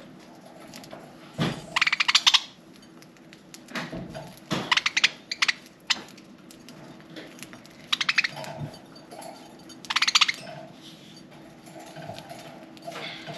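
Pet budgerigars making four short bursts of rapid clicking, each lasting under a second.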